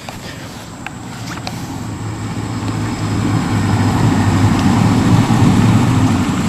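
A car approaching and drawing up close, its engine and tyre noise growing louder over the first four seconds, then running steadily nearby.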